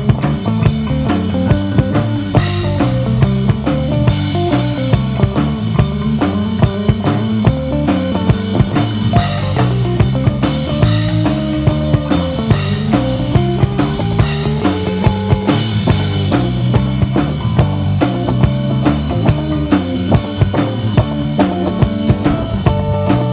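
Live rock band playing an instrumental break: a steady drum-kit beat with kick and snare under a bass line and a guitar lead melody.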